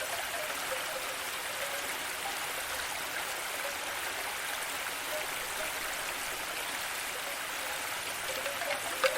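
Steady hiss of flowing water in a relaxing nature ambience, with a few soft chime-like tones near the end.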